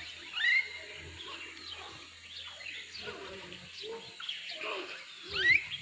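Small birds chirping and calling, with many short quick notes and two louder rising calls, one just after the start and one near the end.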